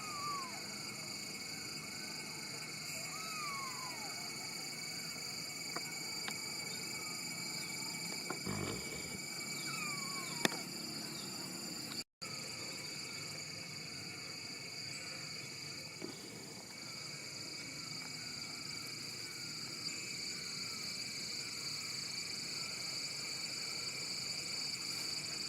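Steady high-pitched insect chorus, with a few faint falling calls over it. The sound drops out for an instant about halfway through.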